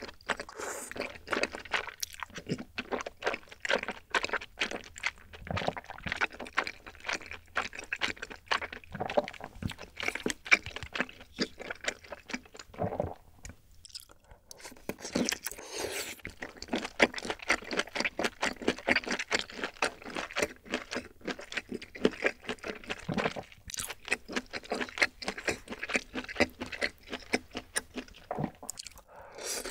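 Close-miked chewing and lip smacking of rose tteokbokki rice cakes in a creamy sauce: a steady run of small mouth clicks, with a short pause about halfway.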